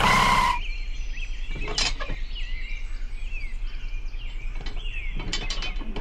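A running engine sound cuts off about half a second in. After it come a few light metal clicks and taps as a small metal blade is fitted to the front of a toy tractor, with faint bird chirps in the background.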